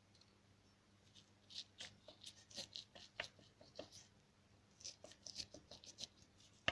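Faint, irregular light clicks and taps of a piston rocking in its cylinder bore in a dismantled Toyota 3SZ engine. The piston plays loosely on its rings, a sign of worn pistons and rings behind the engine's knock.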